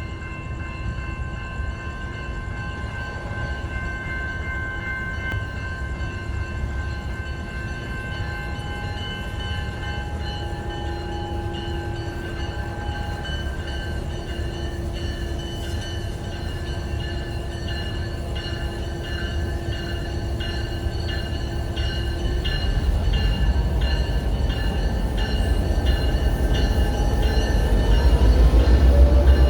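Freight train with diesel locomotives approaching: a low engine rumble that grows steadily louder over the last several seconds, with some steady high tones above it.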